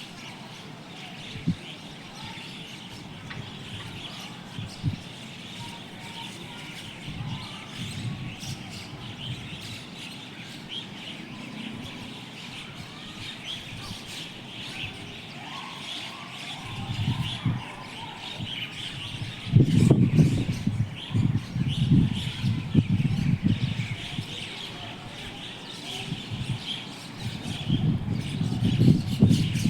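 Many small birds chirping and twittering together without a break, a flock's noisy chatter. Bouts of low rumbling come in over it in the second half, loudest around two-thirds of the way through and again near the end.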